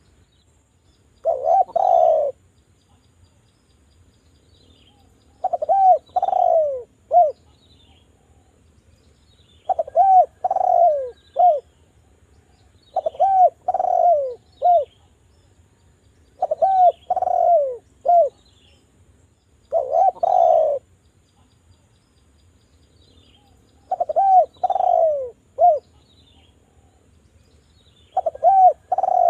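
Island collared dove (derkuku) cooing: short phrases of three or four low, falling coo notes, repeated about every three to four seconds.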